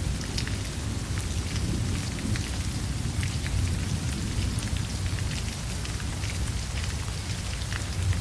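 Steady rain falling, with scattered drops ticking and a low rumble underneath.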